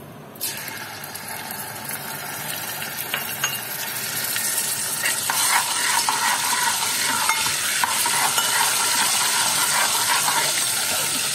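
Ginger-garlic paste sizzling as it hits hot oil in an aluminium pot, starting abruptly and growing louder as it fries. A steel ladle stirs and scrapes against the pot, with a few clicks a few seconds in.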